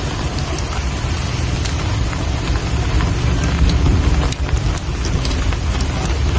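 Steady rain falling, with scattered sharp ticks of single drops over an even hiss and a low rumble underneath.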